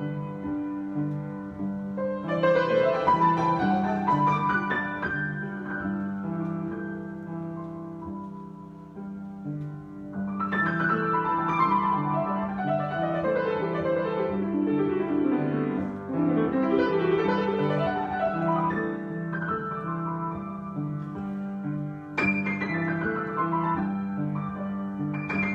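Solo piano improvisation: a repeating figure in the low register under flowing runs that cascade downward in the upper register, with a loud chord struck about 22 seconds in.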